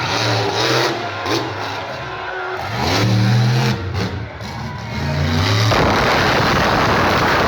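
Monster truck engine revving hard, its pitch climbing and falling in repeated bursts. From about six seconds in, a loud, steady rushing noise takes over.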